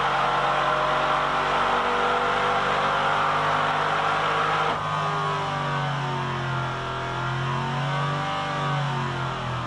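Mercedes-AMG 5.5-litre V8 running hard on an engine test bench, its exhaust glowing red-hot under load, with a steady high-revving drone. About halfway through the revs drop, and the lower engine note then wavers up and down.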